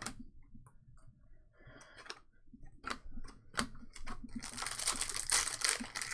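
Trading cards and a foil pack wrapper being handled: scattered light clicks and taps, then dense crinkling from about four and a half seconds in.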